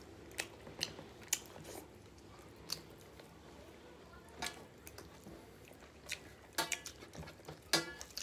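Close-miked chewing of rice and chicken curry, with wet mouth clicks and lip smacks every second or so, thickening into a quick run of clicks near the end.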